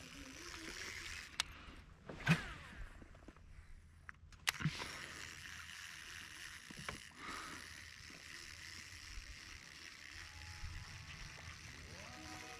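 Water sloshing and lapping against a kayak hull, with a few sharp knocks; the two loudest come about two seconds and four and a half seconds in.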